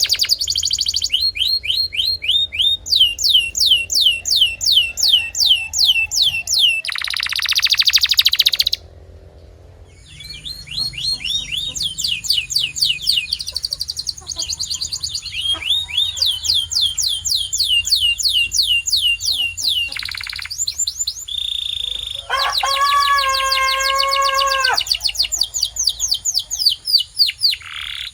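Domestic canary singing: fast trills of repeated, quickly falling whistled notes, several a second, with a short break about nine seconds in. About two-thirds of the way through comes a lower, richer rolling note held for a couple of seconds under the trill.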